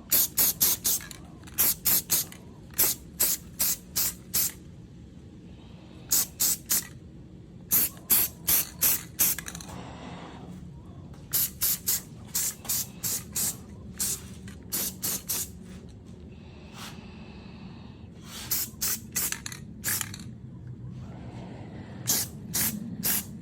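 Aerosol spray paint can spraying in quick short bursts, several a second, in groups with brief pauses between, as paint goes onto a steel dirt bike frame.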